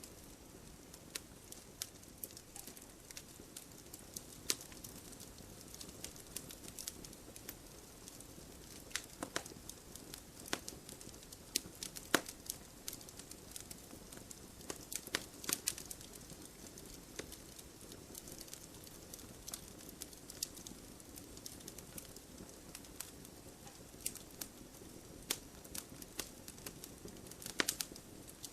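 Split firewood burning in a wood stove, crackling with irregular sharp pops over a low, steady rustle of flame. The pops come in small clusters, the loudest about twelve seconds in.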